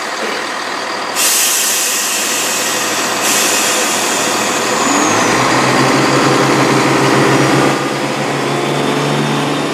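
Class 170 Turbostar diesel multiple unit pulling away from the platform: a broad hiss swells about a second in, then about five seconds in its diesel engines take power with a low note rising in pitch.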